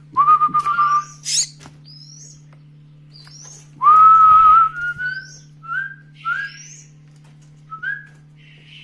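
Young mynas being hand-fed, with high shrill begging chirps and a series of clear whistled notes: a long note near the start and another about four seconds in, then short rising ones about every half second. A steady low hum runs underneath.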